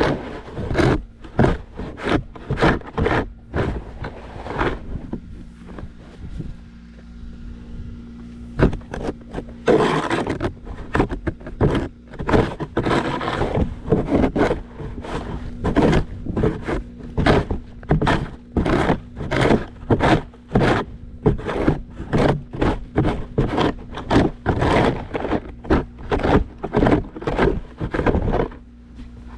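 Snow shovel scraping along a driveway in repeated short strokes, about one or two a second, with longer scrapes around ten and thirteen seconds in. A faint steady low hum runs underneath.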